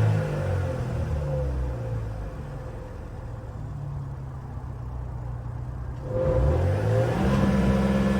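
Car engine being revved from under the open hood: it falls back to a rough idle, then is revved up again about six seconds in and held high. The engine is shaking at idle, which the owner takes for a misfire from a spark plug or coil pack.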